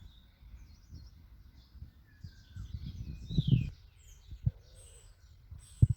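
Small birds chirping and twittering, with one louder sweeping call about halfway through, over low rumble and a few dull thumps.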